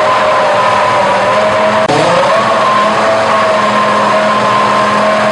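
Ferrari Formula 1 car engine running loud and steady at a fixed, high-pitched speed, with a brief dip in pitch about two seconds in.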